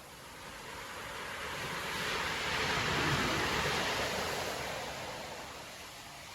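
Storm surf: one large wave swelling into a rushing hiss of breaking water and foam, peaking about halfway through and fading again, with wind over the shore.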